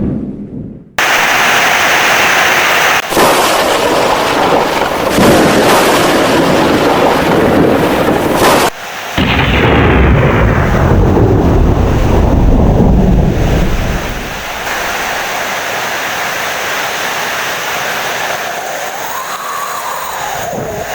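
Heavy rain with loud rolling thunder, cut off abruptly twice, just before a second in and near nine seconds. The thunder dies away about 14 seconds in, leaving steady rain.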